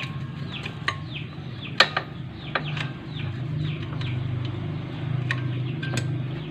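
Birds chirping over and over in short falling calls above a steady low hum, with a few sharp clicks, the loudest about two seconds in.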